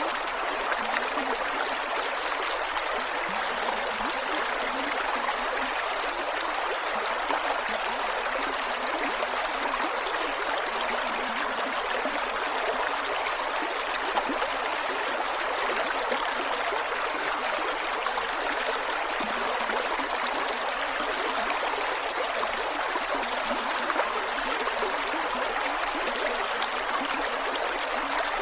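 Creek water flowing and gurgling over rocks, a steady, even babble.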